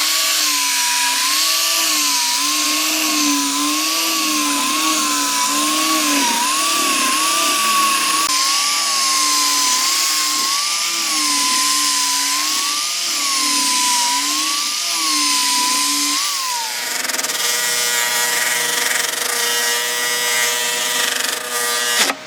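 A power tool cutting wood, its motor pitch dipping and recovering again and again as it bites into the work. About 17 seconds in it settles into a steady, even hum.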